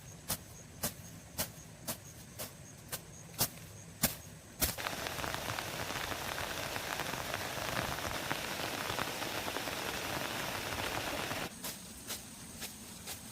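A run of sharp knocks, about two a second, then heavy rain falling as a steady hiss that starts abruptly about four and a half seconds in and cuts off about seven seconds later, after which the knocks resume.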